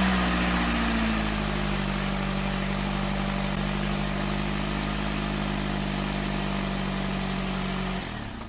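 2008 Vauxhall Vectra's engine idling just after starting. The revs ease down over the first second or so and then hold steady until the sound cuts off abruptly near the end.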